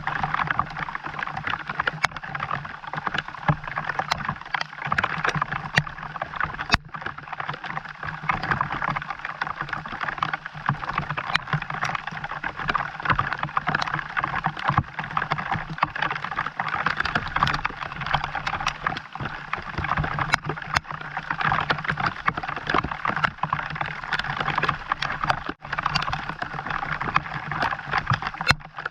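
Steady rain falling, a dense run of small drop ticks without let-up.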